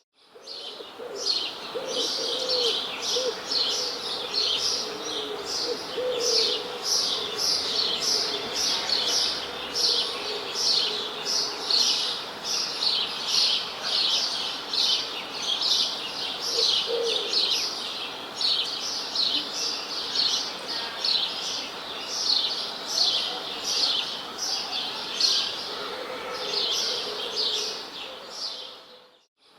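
Birds chirping: a steady, dense run of short high chirps, with a few lower calls beneath. It fades in at the start and fades out near the end.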